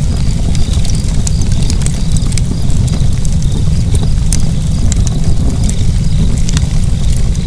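Burning fire with a steady low rumble of flames and frequent sharp crackles and pops at irregular intervals.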